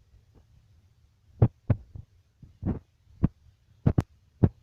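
A series of about seven short, sharp thumps and knocks at uneven intervals, starting about a second and a half in, over a low steady hum.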